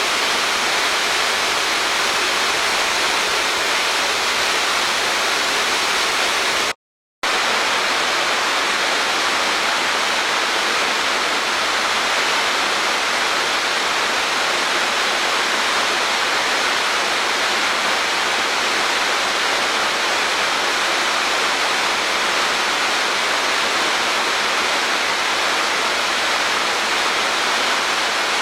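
Waterfall pouring into a mountain gorge: a steady, loud rush of falling water. The sound cuts out completely for a split second about seven seconds in, then resumes unchanged.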